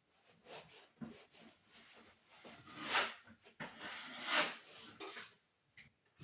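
Hand scrubbing strokes on a surface: irregular rubbing, with two louder strokes about three and four and a half seconds in.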